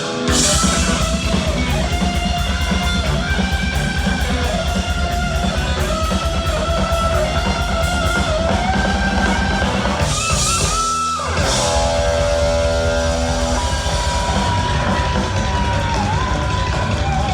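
Heavy metal band playing live: an electric guitar lead over a fast drum beat and bass, with a short break about ten seconds in and a long held note near the end.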